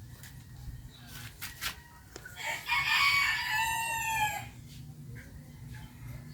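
A rooster crowing once, a single call of about two seconds that drops in pitch at its end. A few sharp clicks come just before it, and a steady low rumble runs underneath.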